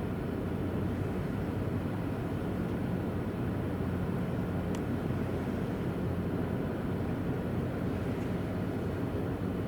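Steady low rumble and drone of a ferry's engines running at a constant pace, with a faint hum under a steady noise.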